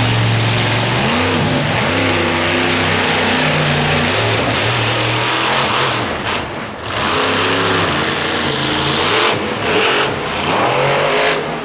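Monster truck's supercharged V8 engine revving hard, its pitch repeatedly climbing and dropping as the throttle is worked. The throttle lifts briefly twice, about six seconds in and again near the end.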